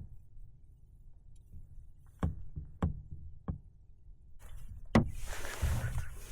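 A few sharp, hollow knocks against a canoe hull, then a louder knock about five seconds in, followed by steady splashing and rushing water.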